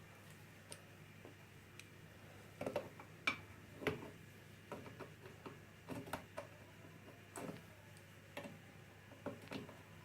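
Faint, scattered small clicks and light taps as a tap's aerator tip is unscrewed and handled.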